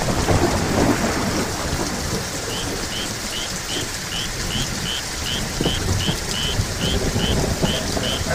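Heavy rain pouring down steadily, with a low rumble underneath. From about two and a half seconds in, a series of short high chirps repeats about three times a second.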